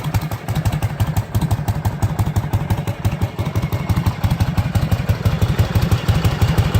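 Panhead-style Harley-Davidson V-twin motorcycle engine idling with a steady, even beat of exhaust pulses as it warms up after a cold start, growing a little louder in the second half.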